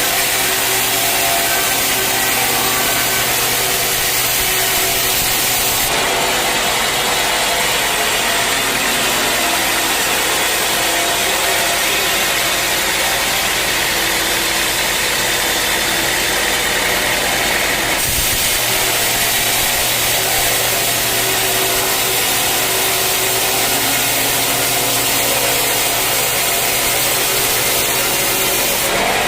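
A sawmill running steadily, its motor humming while the blade cuts through dense acacia wood. The sound shifts abruptly twice, about 6 and 18 seconds in.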